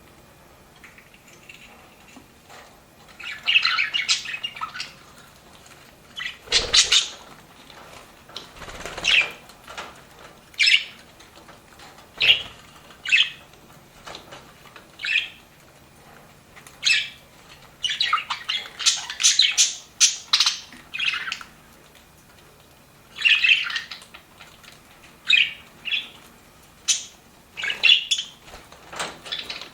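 Pet budgerigars chirping and warbling in short, lively bursts a second or two apart, starting after a few quiet seconds.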